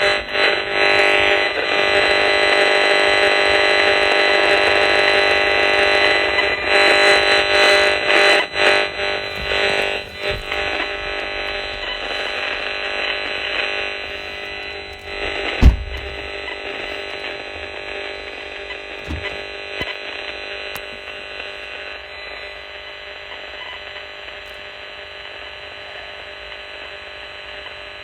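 Buzzing, crackling static from a handheld RF radiation meter's speaker, the sound of the high-frequency signals it is picking up. It is loud for the first dozen or so seconds, then fades to a weaker steady hum. A single sharp knock comes about 16 seconds in.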